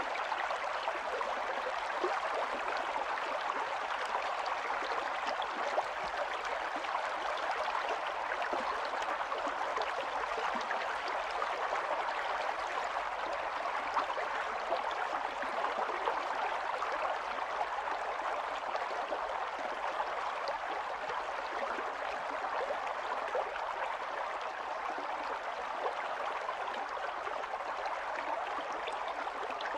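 Stream water running over stones, a steady babbling with fine splashes and gurgles.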